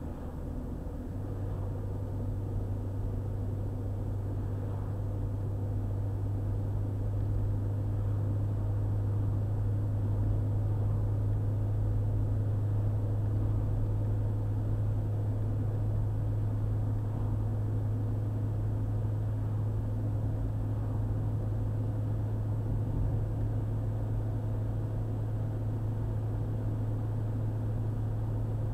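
Car driving steadily along a highway: a continuous low drone of engine and road noise, with a deep hum that grows stronger about a second in and then holds steady.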